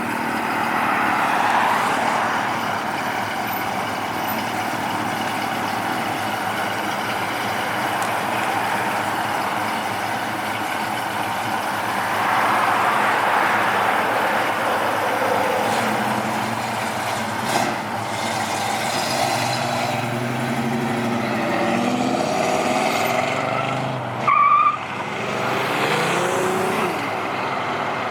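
Cars driving past one after another, their engines revving up and down. A brief loud high tone sounds about 24 seconds in.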